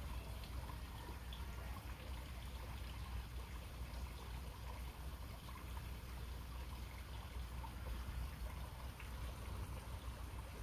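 Water trickling steadily, with a low steady rumble underneath and a few faint ticks.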